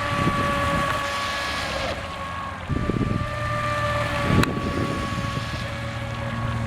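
Brushless electric motor of a Pro Boat Shockwave 26 RC speedboat whining at a steady high pitch as the boat runs, with wind buffeting the microphone. There is one sharp click about four and a half seconds in.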